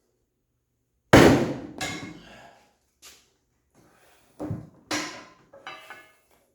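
Sledgehammer blows struck through a wooden block onto a bent Jeep soft-top door frame to straighten it: a loud first blow about a second in, then several lighter strikes, some with a short metallic ring.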